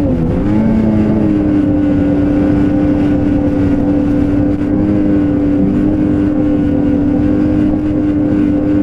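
Two-stroke snowmobile engine running at a steady cruising speed, its pitch dipping briefly at the start and then holding level.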